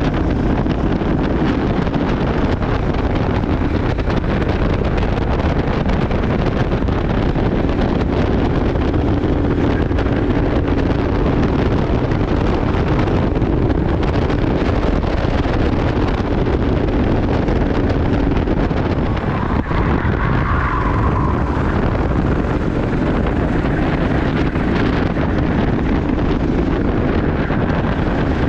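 Amika Mini kart's engine running at racing speed, with heavy wind buffeting on the onboard microphone. A brief higher-pitched tone comes in about two-thirds of the way through.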